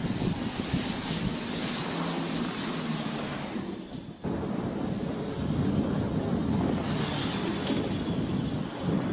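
Twin-engine turboprop aircraft flying low over a carrier flight deck, its propellers droning steadily. About four seconds in the sound dips and cuts, and a steady rushing noise of engines and wind follows.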